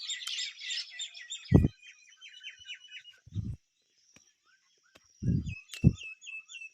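Thick wet anthill-mud paste slapped by hand into cracks in an earthen wall: four dull low thuds, the last two close together. Small birds chirp in quick repeated notes throughout.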